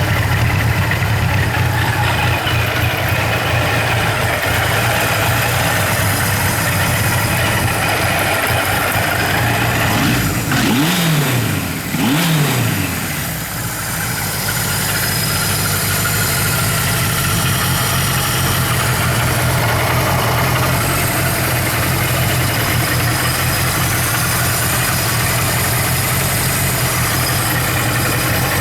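Kawasaki Z1000 inline-four motorcycle engine idling steadily, with two quick throttle blips about ten and twelve seconds in, each dropping straight back to idle.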